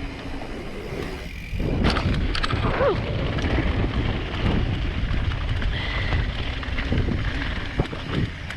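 Mountain bike descending a rough dirt trail: wind buffets the microphone while the bike rattles and knocks over the ground. The noise briefly drops about a second and a half in, then comes back louder, with scattered knocks and a few short squeals.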